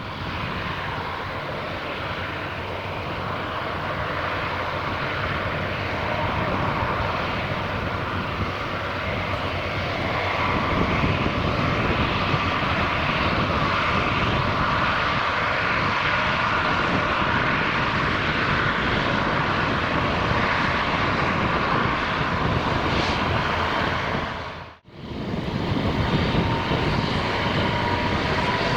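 Airbus A350's Rolls-Royce Trent XWB turbofans at takeoff thrust: a loud jet roar that builds over the first several seconds and holds, with a steady whine running through it. The roar cuts out abruptly for a moment about 25 seconds in, then resumes at full loudness with rising whines near the end.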